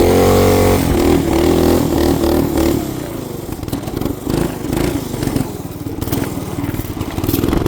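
212 cc single-cylinder small engine running at high revs, easing off after about two and a half seconds and then running unevenly at lower revs.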